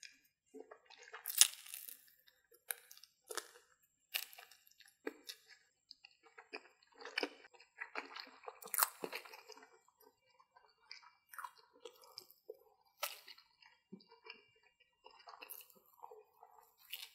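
Close-miked eating of battered corn dogs: crisp crunching bites into the fried cornmeal crust, with chewing in between. The loudest crunch comes about a second and a half in.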